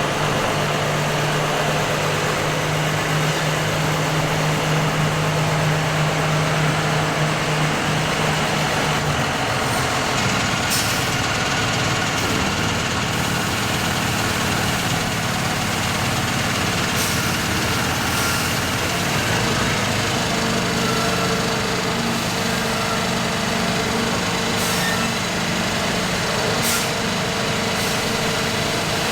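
New Holland CX 8.70 combine harvester running steadily while cutting wheat, heard as an even mechanical drone from the cab. A low hum shifts in pitch about nine seconds in and again around twenty seconds in.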